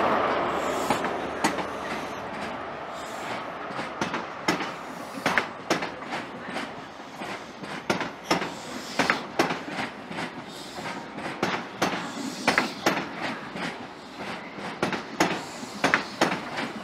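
CrossCountry High Speed Train's Mark 3 coaches rolling past close by, wheels clicking over the rail joints in an irregular clickety-clack over a low rumble. The power car's engine noise fades away over the first couple of seconds.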